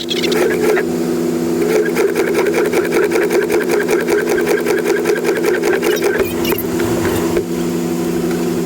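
A vehicle running at a steady speed, its even hum overlaid by a rapid, rhythmic mechanical clatter.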